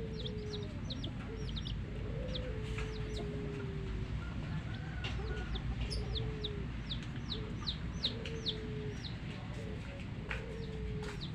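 Chicks peeping continually in short, high, falling notes, with a hen's low drawn-out clucking calls underneath.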